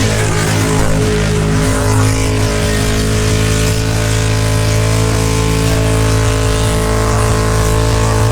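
V8 engine held at steady high revs, its pitch barely changing, typical of a car doing a burnout.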